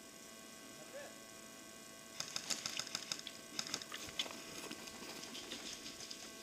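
Airsoft guns firing: bursts of rapid clicking begin about two seconds in and keep going.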